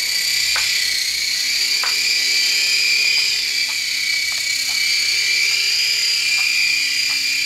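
Air Hogs toy RC helicopter in flight, its small electric motor and rotors giving a steady high-pitched whine that wavers slightly in pitch.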